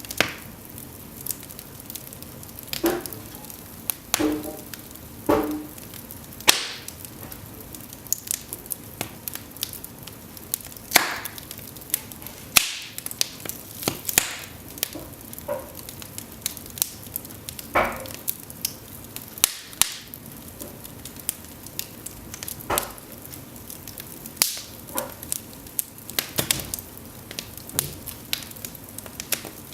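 Cedar logs burning in an open fireplace: a steady soft hiss broken by frequent, irregular crackles and sharp pops, a few of them much louder than the rest.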